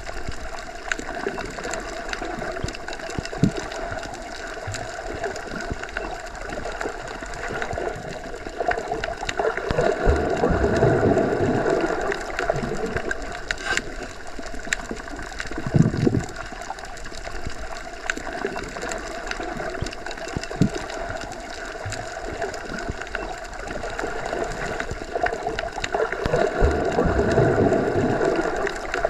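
Underwater ambience as heard with the ears submerged: a steady, muffled wash of water that swells slowly, loudest about ten seconds in and again near the end, with a few dull low thumps.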